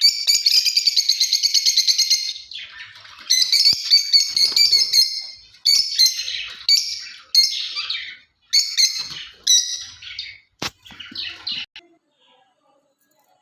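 Lovebirds chattering in runs of rapid, shrill chirps, coming in several bursts. There is a single sharp click about ten and a half seconds in, and the birds fall quiet near the end.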